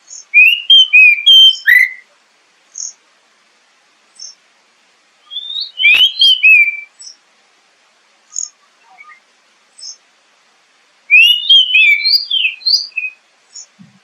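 Oriental magpie-robin (kacer) singing: three loud bursts of quick sliding, rising-and-falling notes, with short high single notes between them.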